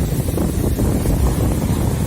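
Wind buffeting the microphone as a steady, rough low rumble, with ocean surf washing underneath.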